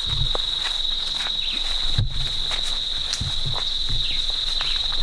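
A steady, high-pitched chorus of insects shrilling on one unbroken note, with footsteps and scattered low thumps of people walking over the forest floor.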